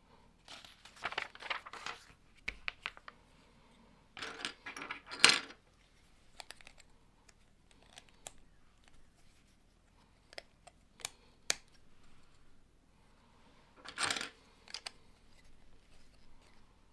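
Plastic Lego pieces being handled and pressed together: bursts of rattling and clicking, with single sharp clicks between them.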